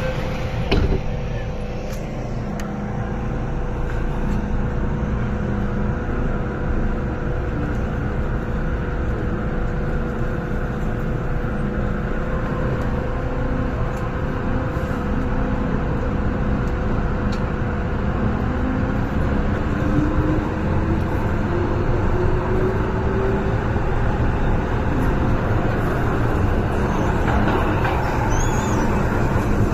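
Running noise heard inside a car of an MTR M-train electric metro train: a steady rumble with a constant hum, and a whine that rises in pitch for several seconds in the second half, as traction motors do when the train picks up speed.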